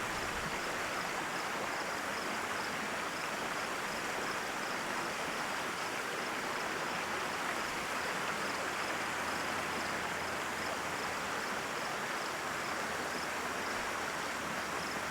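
Mountain stream flowing steadily, an even rushing of water, with a faint, evenly repeating high chirp over it.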